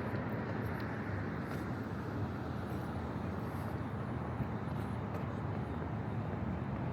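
Steady hum of city traffic: an even, unbroken wash of road noise.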